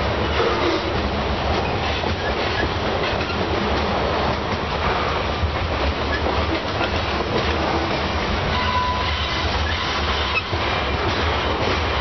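Covered hopper cars of a long freight grain train rolling past at steady speed: a continuous rumble of steel wheels on rail with rapid clacking, and a short wheel squeal about nine seconds in.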